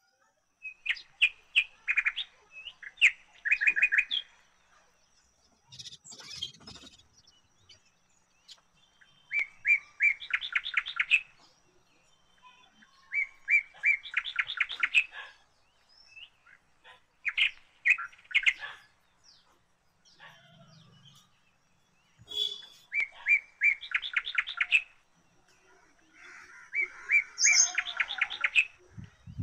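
Birdsong: a small bird sings the same fast trill of high chirps over and over, each phrase lasting a second or two with a few seconds' pause between.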